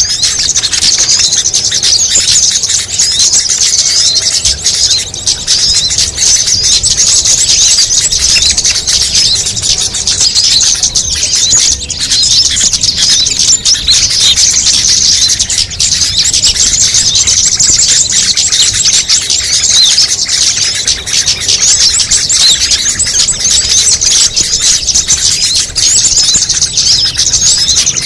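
A dense, loud, unbroken chorus of many small songbirds' high chirps and twitters overlapping one another: a mixed bird-lure recording (suara pikat) made to draw small birds in.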